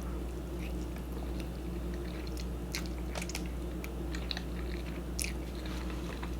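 Close-miked chewing of ramen noodles in sauce: scattered short, wet mouth clicks and smacks. A steady low electrical hum runs underneath.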